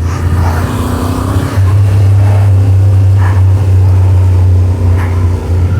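Yamaha Ténéré 700's parallel-twin engine running under way, a steady low drone that steps up in loudness about a second and a half in and holds there.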